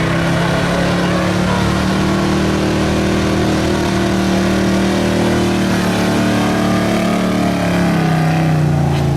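A 1977 Ford F-350's stock gasoline engine runs at high revs under heavy load as the truck drags the pulling sled, its pitch held steady. Near the end the revs drop as the truck bogs down at the end of its pull.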